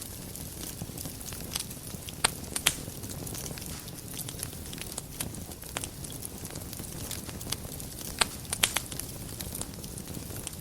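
Wood fire burning in a fireplace: a steady low rumble of flames with irregular sharp crackles and pops, a few louder snaps a couple of seconds in and again about eight seconds in.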